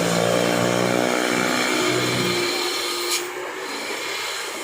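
A vehicle engine running close by at a steady pitch, fading out about halfway through, followed by a single sharp click.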